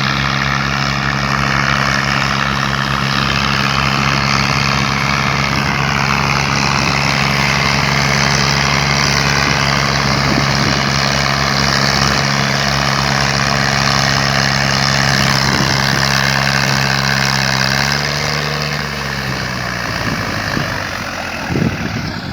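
Massey Ferguson 240 tractor's three-cylinder diesel engine running steadily while hauling a load of wood. About eighteen seconds in, its pitch and loudness drop as the revs fall.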